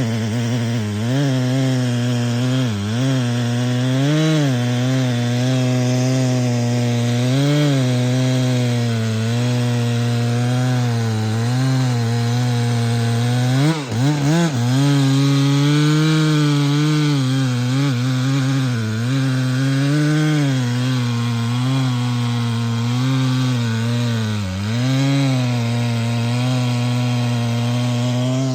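Chainsaw cutting into a tree under load. Its engine note sags and recovers every couple of seconds as the chain bites into the wood, with a sharp dip about halfway through, and it drops away near the end.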